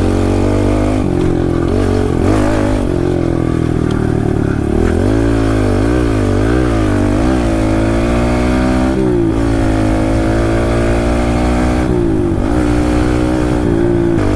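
Kawasaki KLX 110L pit bike's small single-cylinder four-stroke engine under way, its revs rising and falling over and over as the throttle is worked.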